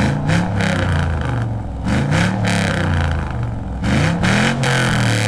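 A 2004 5.3-litre V8 in a 1959 Chevrolet Apache Suburban, running through glasspack dual exhausts, revved in three quick throttle blips about two seconds apart. Each blip rises and falls back to idle.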